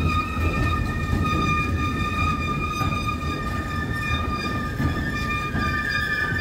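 Freight train of Shimmns hooded steel-coil wagons rolling past close by, a steady low rumble of wheels on rail with several steady high-pitched tones ringing over it.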